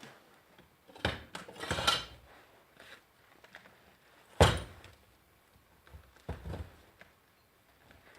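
A few knocks and clunks of tools or parts being handled on a workbench: a short clatter about a second in, a single sharp knock about four and a half seconds in, and two lighter knocks later.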